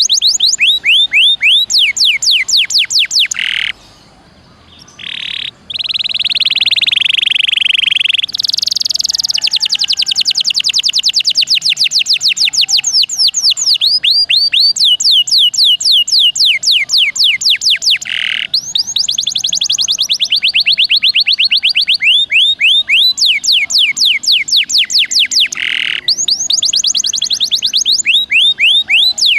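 Domestic canary singing continuously in long, rapid trills of repeated sweeping notes. The song pauses briefly about four seconds in, then a harsh, buzzy phrase lasts a few seconds before the fast trills resume.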